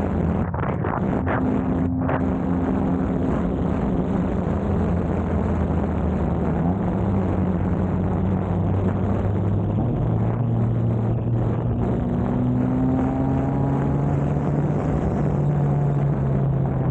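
A 2000 Honda Civic's D-series four-cylinder engine running on the move, over steady road noise. The engine pitch climbs in a few steps: about a third of the way in, again just past halfway, and once more near the end.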